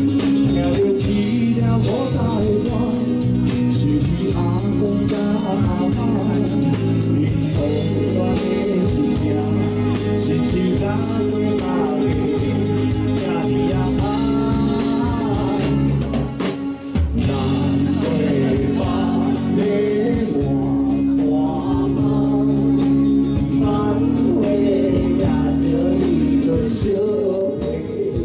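Live rock band playing a song: drums keeping a steady beat under bass and guitar, with a vocal melody on top and a short break about two-thirds of the way through.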